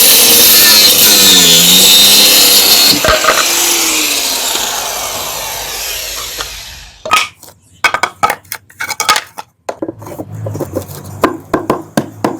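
Power saw cutting plywood, its motor pitch dipping under load; about three seconds in the cut ends and the motor winds down over several seconds. After that, scattered knocks and clatter of wood being handled.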